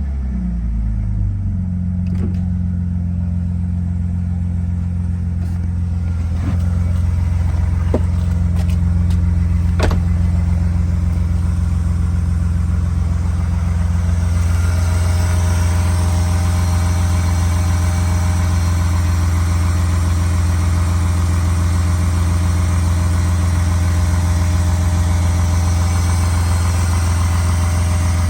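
BMW E36 engine idling steadily after a cold start, its revs dropping back to idle in the first second or two after a blip. A few faint ticks sound early on, and a broader rushing noise joins the engine from about halfway through.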